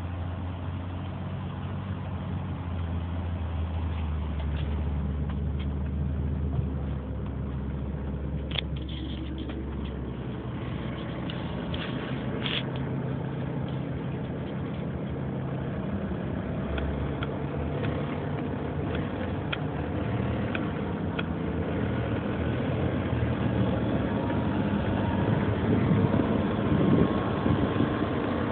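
2003 Nissan Murano's 3.5-litre V6 engine running steadily, with scattered clicking and tapping over the hum, a cluster of sharper clicks about a third of the way in: the strange engine noise the owner is trying to trace.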